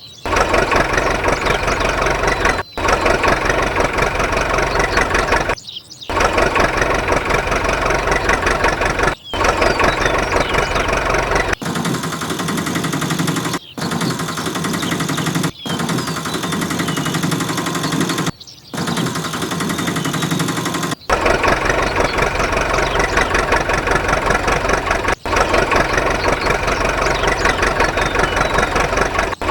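An engine running with a rapid knocking chug, broken by several short gaps.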